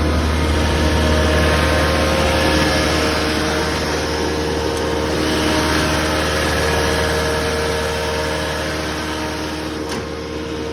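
Cat 257D compact track loader's Cat diesel engine running steadily without revving, a constant low hum.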